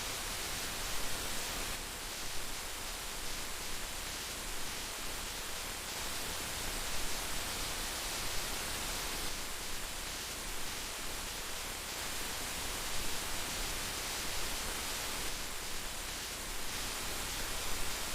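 Heavy rain falling steadily, a dense even hiss with small irregular louder patters throughout.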